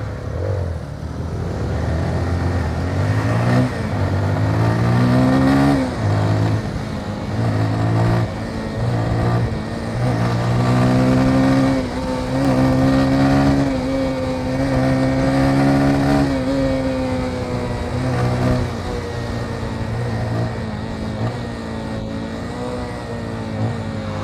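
Motorcycle engine accelerating through the gears: its pitch climbs and then drops back at each gear change, several times over. In the last few seconds it settles to a steadier, slightly quieter cruise.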